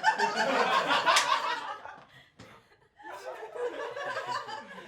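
Audience laughing at a comedian's fumbled line: a loud burst of laughter for about two seconds dies away, then a second, quieter wave of laughter comes in about three seconds in.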